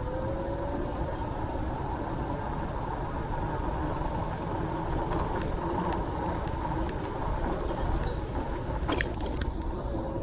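City street traffic with a steady low rumble of road noise, heard from a moving bicycle. A vehicle's engine note rises in pitch at the start, and a few sharp clicks come about nine seconds in.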